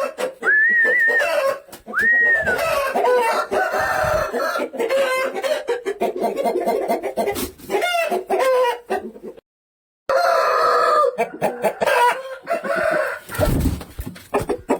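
Aseel chickens calling: roosters crowing several times in the first couple of seconds, with clucking and other calls throughout. It breaks off to silence for about half a second a little past the middle.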